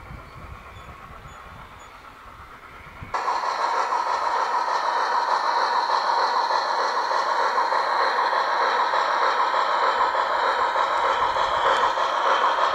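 Garden railway model train running on its track: a quieter rumble, then a sudden jump to a much louder, steady running sound about three seconds in.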